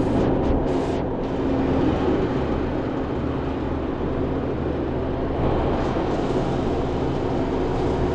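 Reach-in refrigerator's condensing unit running, compressor and condenser fan, with a steady hum and low drone while the system, low on R-404A charge, pulls down toward its cut-out.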